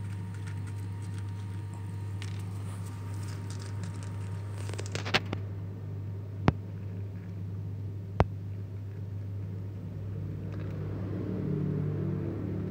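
A cat eating uncooked rice: faint crackling and three sharp crunches over a steady low hum, with a low rumble rising near the end.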